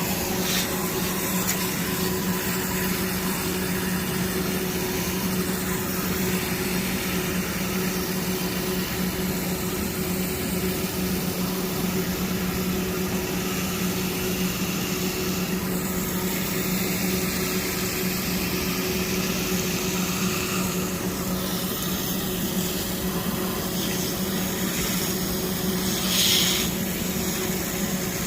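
Water spraying onto a commercial air-conditioning condenser coil during coil cleaning, an even hiss over a steady machine hum, with a brief louder burst of hiss near the end.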